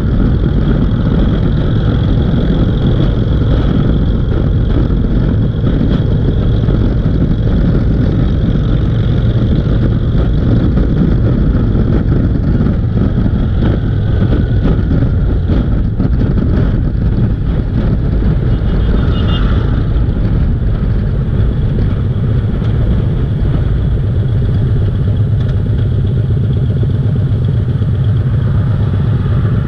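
Motorcycle engine running steadily under way, a loud constant drone with no breaks.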